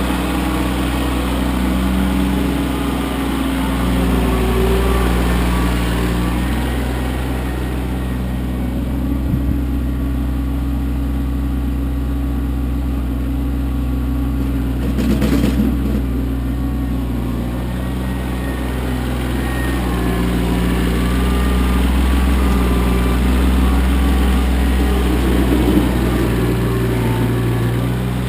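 Kioti CK25 compact tractor's diesel engine running steadily, its pitch shifting slightly. A brief rough noise rises over it about halfway through.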